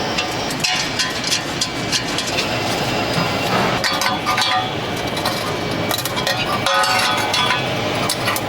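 Metal workshop noise: steel parts clinking and knocking over a steady noisy background.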